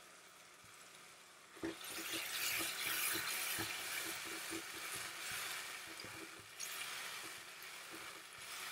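Ground tomato purée sizzling in hot masala in a non-stick pan while a silicone spatula stirs it, with soft strokes of the spatula about twice a second. The sizzle starts suddenly about one and a half seconds in and eases off toward the end.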